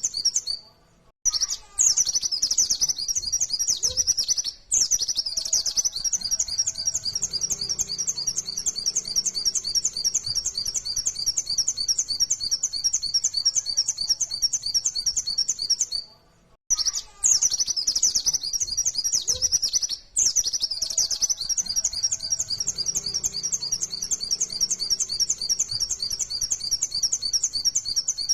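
White-eye (pleci, Zosterops) singing a rapid, continuous run of high, sharp chirping notes in the 'nembak' (shooting) style, with short pauses about a second in and again around the middle.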